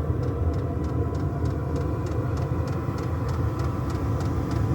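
Chinese diesel air heater running: a steady low roar from the burn chamber and exhaust, with the fan motor's hum. The fuel pump ticks evenly, about four times a second.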